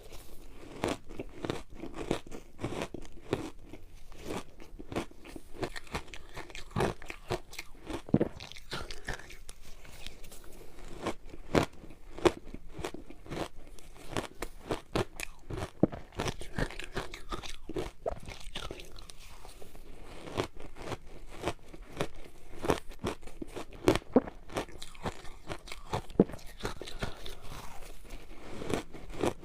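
Close-up crunching and biting of a frozen matcha ice ball: a steady run of irregular, sharp cracks as the ice is bitten and chewed.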